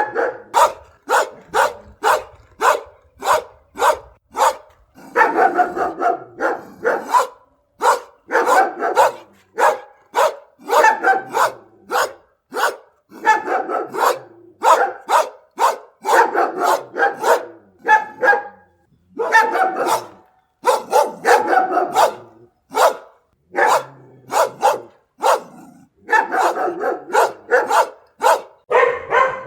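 Dogs barking continuously in short, sharp, repeated barks, about two or three a second, with a few brief pauses.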